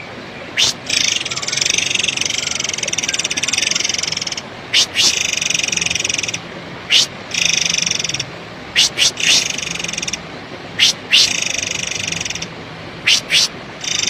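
Recorded calls of the murai air bird played as a lure: harsh, buzzy trilling phrases a second or two long, alternating with short, sharp, high single notes.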